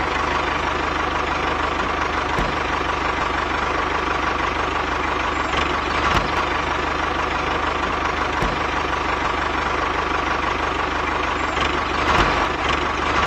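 A small motor running steadily, a constant hum with a fast fine rattle underneath.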